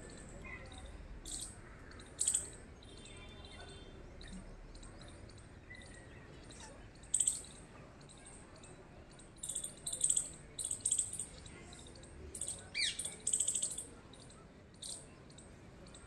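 Small birds chirping: short, high chirps in irregular bunches, busiest in the second half, with one falling whistled note past the middle.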